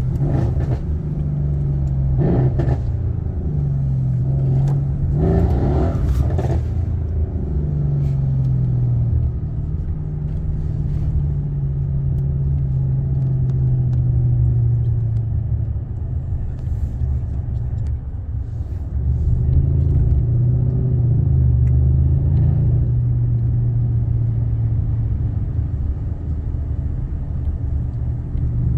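Mercedes-AMG C63 S engine running with a steady low rumble, with two short surges in the first several seconds.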